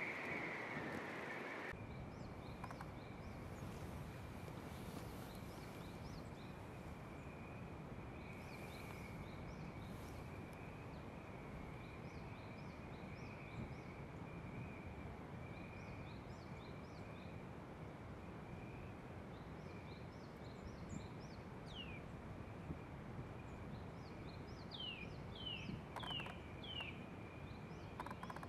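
Outdoor ambience of small birds chirping: scattered short high chirps throughout, and a series of quick downward-sweeping calls near the end, over a steady background hiss with a thin, steady high tone.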